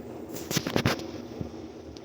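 A quick run of sharp knocks or clatters, about five close together in the first second and one lighter one after, over a steady low hum.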